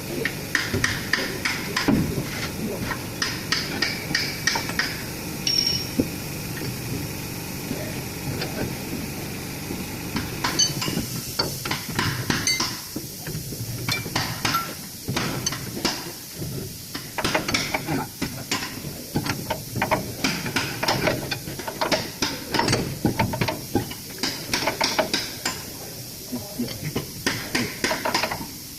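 Hand tools working on metal: repeated metallic clicks and taps in quick runs, as the truck's torque rod and its new rubber bushings are fitted and bolted up.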